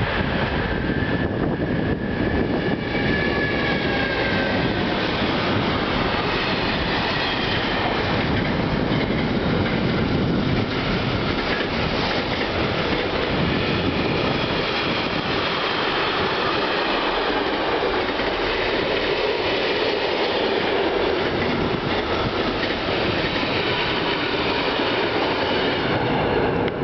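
Class 232 'Ludmilla' diesel locomotive, with its V16 diesel engine running, drawing an intermodal container train past: the locomotive's run-by, then the long string of container wagons rolling past with steady wheel clatter and high-pitched squealing from the wheels.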